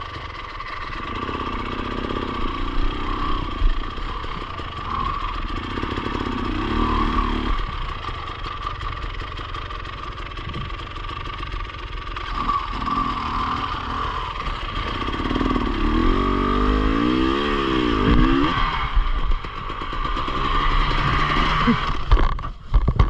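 Enduro motorcycle engine running and revving on rough ground, its pitch rising and falling repeatedly as the throttle is worked, with a few sharp knocks near the end.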